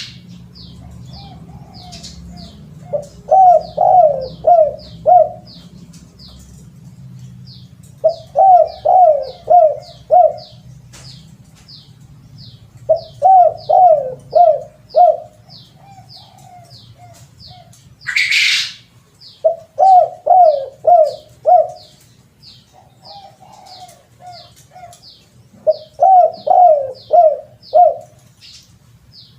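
Spotted dove cooing in repeated phrases of four or five notes, a phrase about every five seconds, over a steady run of short high chirps from another bird, two or three a second. A brief loud hiss cuts in about 18 seconds in.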